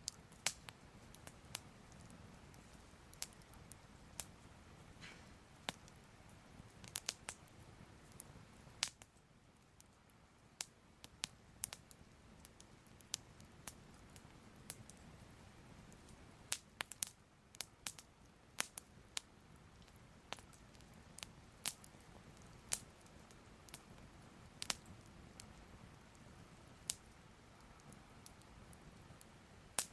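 Soft fire crackling: irregular sharp pops and snaps, about one or two a second and sometimes in quick clusters, over a faint low rumble.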